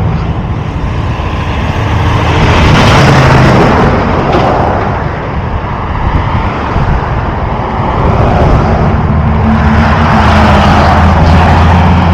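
Heavy highway traffic: a steady rush of vehicles and engine hum, swelling twice as vehicles pass close by.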